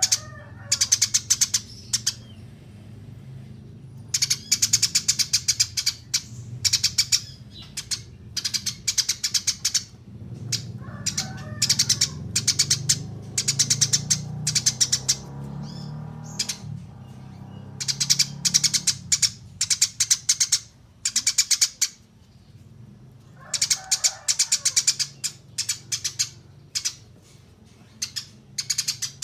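Eurasian tree sparrows chirping in quick bright runs of a second or two each, broken by short pauses, with a few lower chattering notes now and then.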